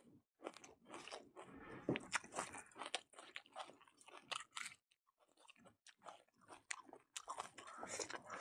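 Close-up mouth sounds of eating rice and Naga-style pork with pig blood and fat by hand: irregular wet chewing, smacking and crunchy bites, with a short pause about halfway.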